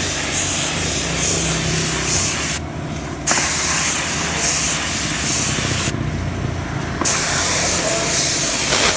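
Air-powered paint spray gun spraying titanium-colour paint onto a motorbike wheel in three long passes of loud hiss, with short breaks between them, over a steady low hum.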